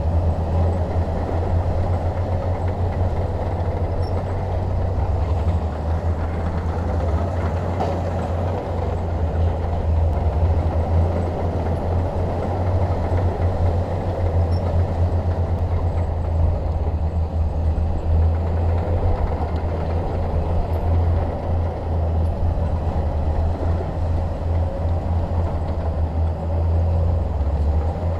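Bulldozer's diesel engine running steadily as a continuous low rumble, with no breaks or changes.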